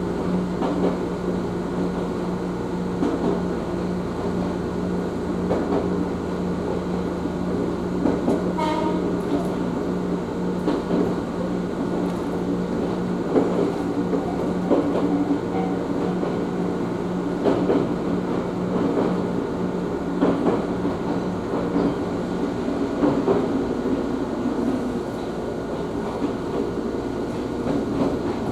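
Interior sound of an Ohmi Railway train running along the line: wheels rumbling and clacking over rail joints, with a steady low hum that stops about 22 seconds in.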